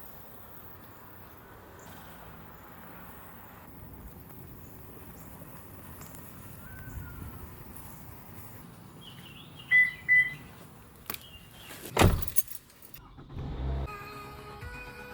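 Steady outdoor background noise with a bird chirping twice about ten seconds in, then a sharp knock, and music starting near the end.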